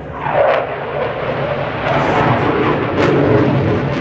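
Eurofighter Typhoon's twin EJ200 jet engines rumbling loudly as the fighter flies its display. The sound swells early on with a falling pitch about half a second in, as the jet passes.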